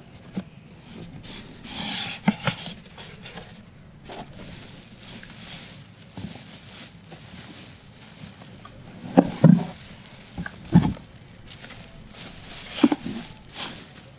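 Plastic wrapping crinkling and rustling as a lawn mower engine is unpacked from its cardboard box, with cardboard and foam packing being handled. A few dull knocks come about nine to eleven seconds in.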